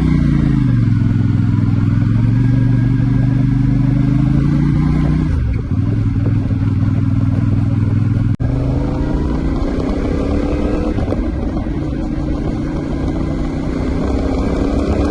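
CFMoto 450NK's parallel-twin engine on the move: it holds a steady pitch for about five seconds, drops back, then climbs steadily under throttle through the second half.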